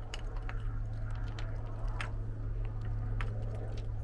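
A steady low hum with a few sharp clicks scattered through it; no engine is running or cranking yet.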